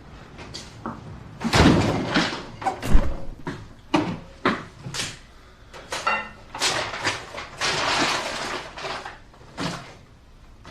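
A run of household knocks and clacks, like a door being opened and shut and things being handled, with a stretch of rustling in the middle.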